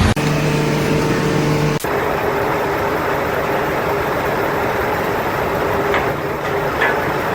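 A heavy vehicle's engine running steadily, with an abrupt break about two seconds in before a similar steady engine noise carries on.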